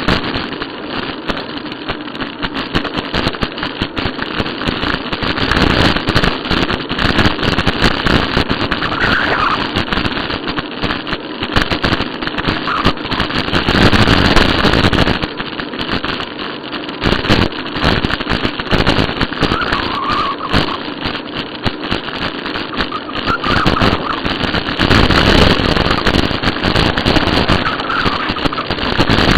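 Wind rushing over the microphone of a camera riding on a moving bicycle, with steady rattling and knocking from the bike jolting over the path.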